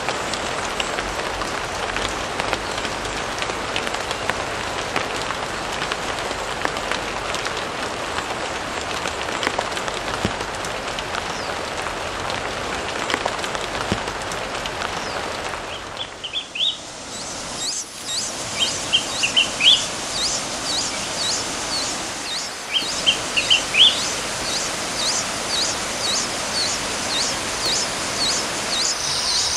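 A steady hiss for about the first half, then wild birds calling: one repeats short, high, sweeping calls about twice a second, while another gives brief clusters of lower chirps.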